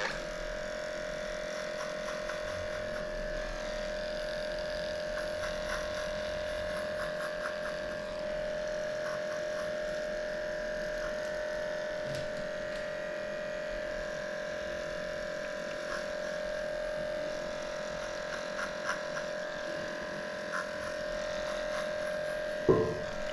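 Electric dog grooming clipper switched on and then running with a steady hum. There are faint clicks through it and a brief louder sound near the end.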